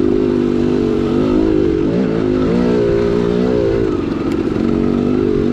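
2010 KTM 300XC-W's two-stroke single-cylinder engine running on the trail; the revs dip about two seconds in, climb and hold for about a second, then drop back.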